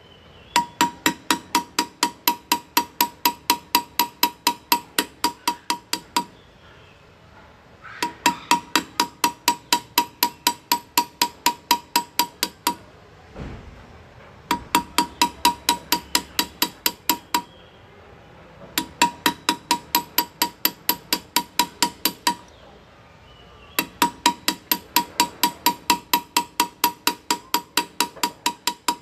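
Hand-engraving hammer tapping a steel graver into metal at a steady pace, about five taps a second, each with a clear metallic ring. The taps come in five runs of several seconds, with short pauses between them.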